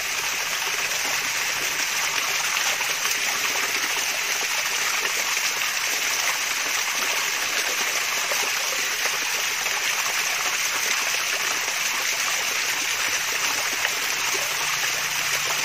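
Water splashing and trickling steadily down a mini waterfall, an even, unbroken bright hiss of falling water.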